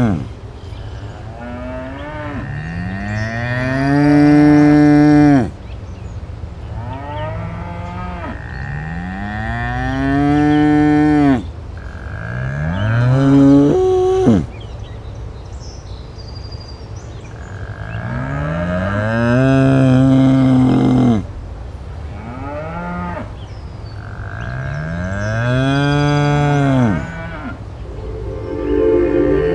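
Cattle mooing: about six long, drawn-out moos in a row, each rising and then falling in pitch, with a few shorter calls between them. A steady low rumble lies underneath.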